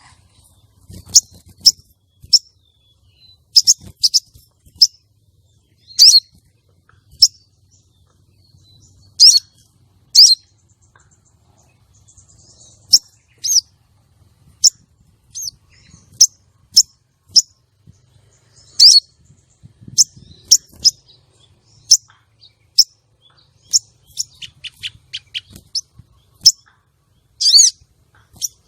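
Female crimson sunbird (sogon) giving sharp, high single chirps at irregular intervals, with a quick run of softer chirps a few seconds before the end.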